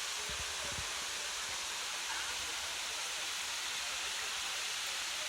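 Waterfall running: a steady, even rush of falling water, with a couple of low thuds about half a second in.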